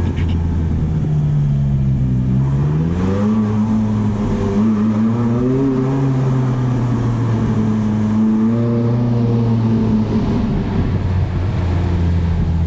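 McLaren sports car engine heard from inside the cabin, pulling at low revs. Its pitch rises gently about two seconds in, holds with small swells, and steps down to a lower steady note near the end.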